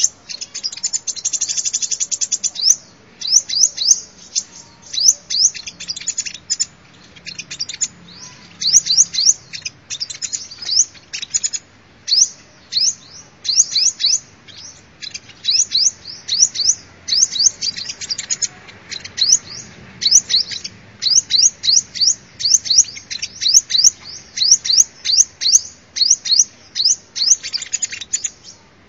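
Sunbird calling: rapid runs of short, high, sharp chirps that come in quick bursts separated by brief pauses.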